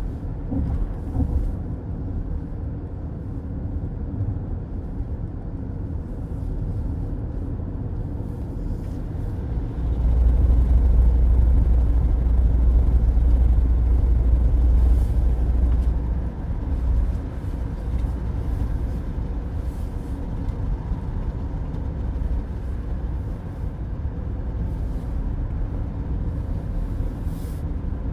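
Car road noise at highway speed heard from inside the cabin: a steady low rumble of tyres and engine. The low rumble grows louder for about six seconds in the middle, then settles back.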